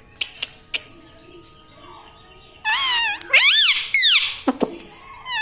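Indian ringneck parrot calling: a few soft clicks, then about two and a half seconds in, loud squawking calls that swoop up and down in pitch, with a shorter call near the end.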